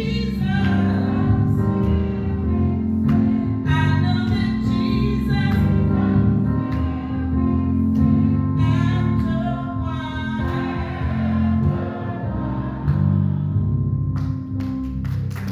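Gospel singing with instrumental accompaniment: voices singing a song over a steady band backing.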